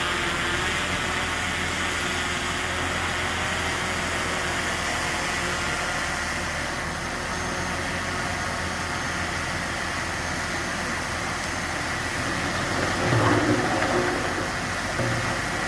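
Diesel engine of heavy earthmoving machinery running steadily, briefly growing louder near the end.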